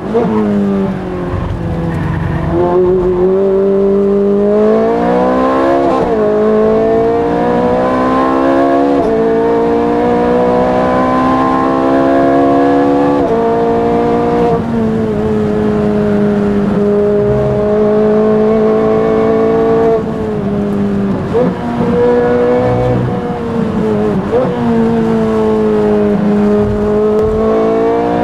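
Ferrari V8 racing engine heard from inside the cabin, pulling hard through the gears: its note climbs and drops sharply at each quick upshift. Midway it eases off with a few short throttle blips, then pulls and shifts up again.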